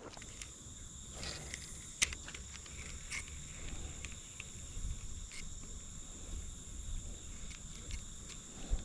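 Insects calling in a steady high-pitched drone, with scattered light clicks over a low background rush.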